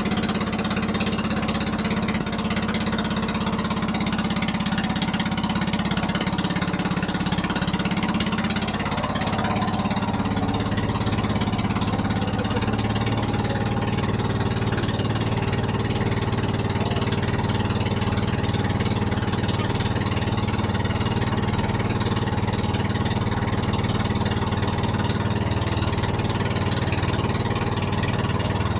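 An old boat engine running steadily; about nine seconds in its speed drops and it settles into a steady, lower run.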